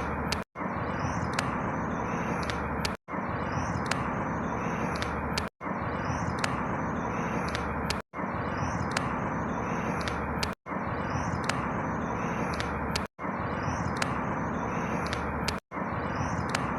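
Outdoor ambience: a steady rushing noise with faint high bird chirps. A short stretch of about two and a half seconds is looped over and over, cutting out for an instant at each repeat.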